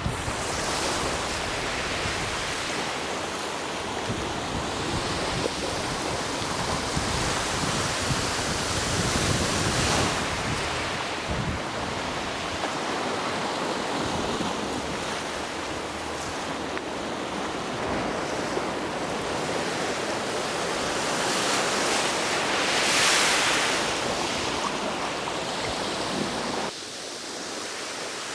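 Ocean surf: waves breaking and washing on the shore in slow swells, with a larger wave surging about two-thirds of the way in. The sound drops abruptly shortly before the end.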